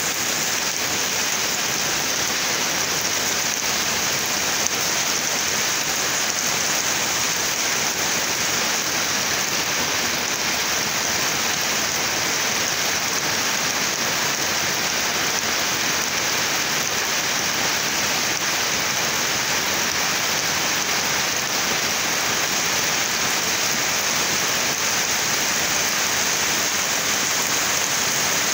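Heavy rain pouring down steadily through trees: a dense, even hiss that holds constant throughout.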